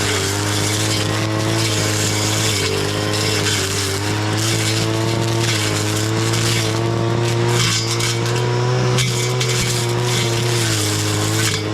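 Two-stroke brush cutter running at high speed, its engine pitch dipping and recovering slightly as it cuts through grass and weeds.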